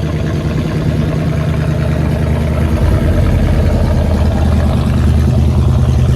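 A car engine idling close by, a steady low running sound that grows a little louder about halfway through.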